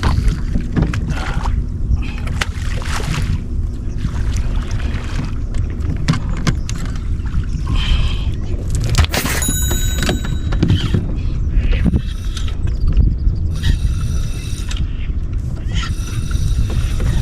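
Boat on the water: a steady low rumble throughout. Scattered sharp clicks and short high-pitched tones come in the second half.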